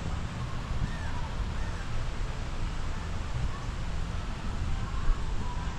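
Steady outdoor ambience: wind rumbling on the microphone, with faint bird calls now and then.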